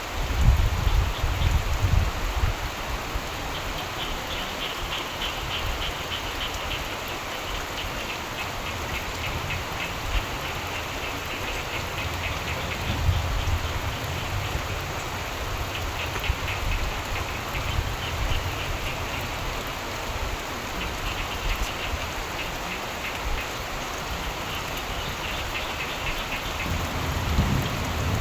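Steady rain falling, with frogs croaking in repeated pulsing choruses every few seconds. Low thunder rumbles in the first couple of seconds and again at the very end.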